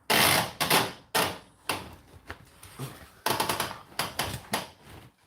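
A quick run of knocks, clicks and rustles from something being handled, several a second, with a short pause about a second in and again near the middle.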